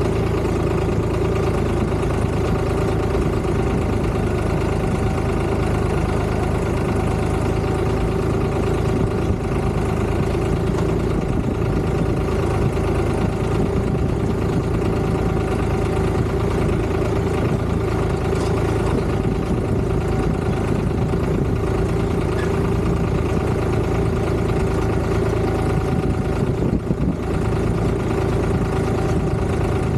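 Tractor engine running steadily, with an even, unbroken drone.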